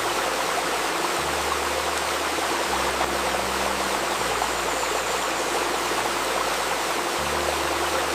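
Babbling river water flowing steadily, with soft low tones layered beneath it that shift in pitch every second or two.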